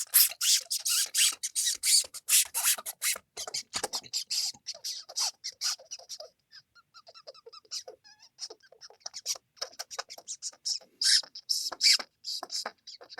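Mouse squeaking: rapid runs of short, high squeaks, dense in the first few seconds, sparser in the middle and bunching again near the end.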